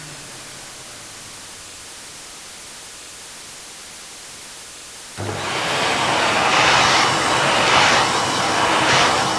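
A faint steady hiss, then about five seconds in a household appliance switches on with a low thump and runs loud with an even rushing noise that swells about once a second.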